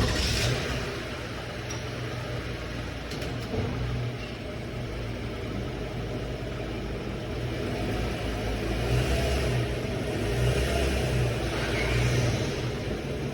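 2016 Toyota Sienna's V6 engine running as the minivan is driven up onto car ramps, the engine note swelling under light throttle in the second half.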